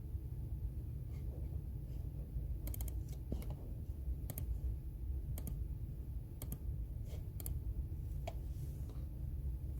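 Computer keyboard typing: scattered, irregular keystrokes, some in quick little runs, over a steady low room hum.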